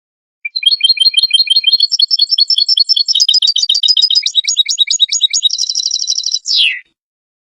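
European goldfinch singing a fast twittering phrase of rapid, repeated notes that lasts about six seconds and ends with a short falling note.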